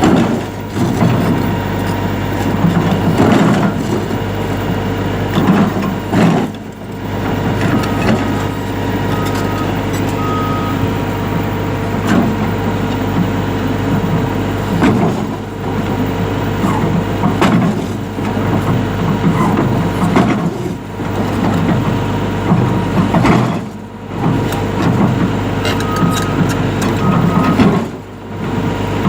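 Caterpillar 352F hydraulic excavator working: the diesel engine runs steadily under load with uneven clanks, and eases off briefly a few times. Three short beeps sound about eight seconds in and two more near the end.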